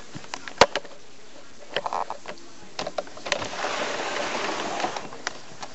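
A few sharp clicks and knocks, then for about two seconds a steady hiss of falling rain.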